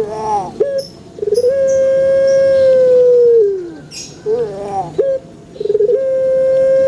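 Puter (Barbary dove) cooing: each call is a short broken opening followed by one long drawn-out note that sags in pitch at the end. The calls repeat about every three and a half seconds, two long notes here.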